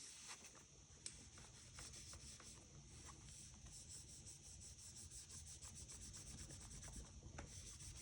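Faint, quick back-and-forth rubbing of a cleaning cloth on an iPhone 5's screen and housing, several short strokes a second, busiest through the middle.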